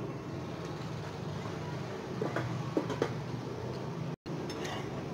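Wheat parotta frying in oil on a dosa tawa: steady sizzling with a few sharp crackles from the oil midway, briefly cut off near the end.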